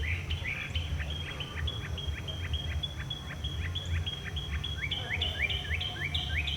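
Northern mockingbird singing: a fast run of the same down-slurred note repeated about five times a second, switching about five seconds in to a slower series of up-slurred notes, typical of the mockingbird's habit of repeating each phrase several times before moving on. A steady low rumble lies beneath.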